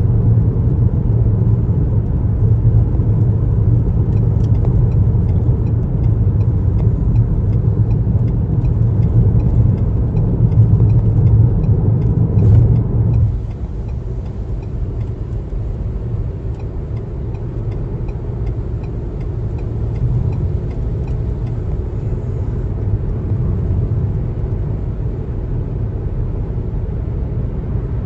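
Car driving on a highway: steady low road rumble from tyres and engine, which drops noticeably in level about halfway through.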